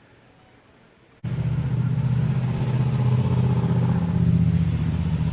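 Quiet for about a second, then a motor-vehicle engine suddenly cuts in, running steadily with a low hum.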